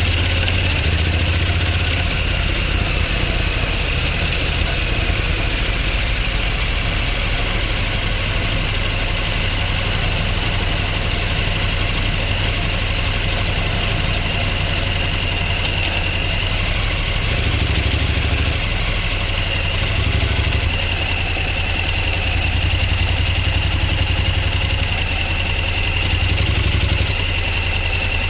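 Motorcycle engine running steadily, with a deep, even note and little change in speed.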